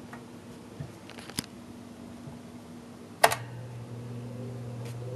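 A few light clicks, then a sharp switch click about three seconds in, after which a steady low electric hum starts: the Westinghouse motor of an early-1950s Lasko box fan being switched on.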